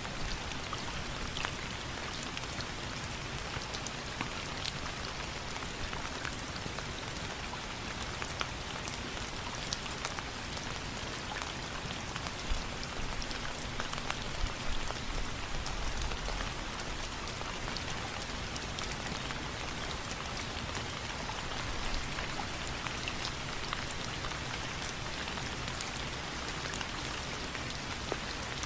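Steady rain falling, a continuous even hiss with many small, sharp ticks scattered throughout.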